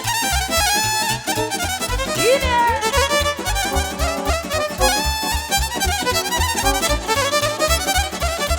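Romanian party music played live: a fiddle carrying a fast melody over a steady bass beat, in an instrumental break between verses. A voice calls out once about two seconds in.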